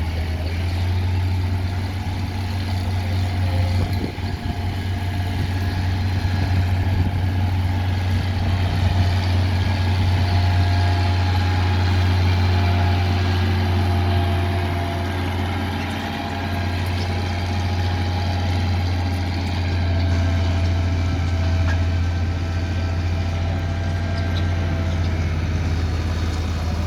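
Tractor engine running steadily, growing a little louder towards the middle with a brief dip later.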